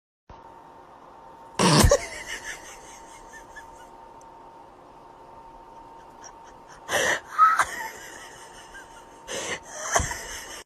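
Three short, sudden sneeze-like bursts of breath: one about two seconds in, one around seven seconds, and one near the end. Between them runs a faint steady hum.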